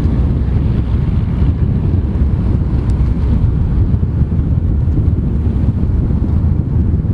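Wind buffeting the microphone: a loud, steady low rumble with no clear engine note standing out.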